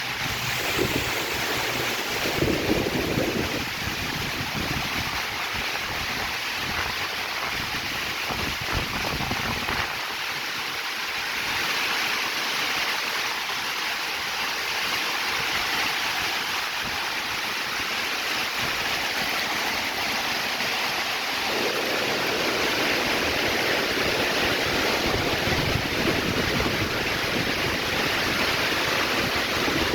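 Heavy rain pouring down in strong wind, a steady hiss of rain. Gusts buffet the microphone with a low rumble about two seconds in and again from about two-thirds of the way through.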